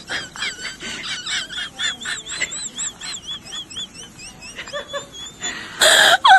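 An animal's rapid series of short, high chirping calls, about three or four a second, with a loud rasping burst near the end.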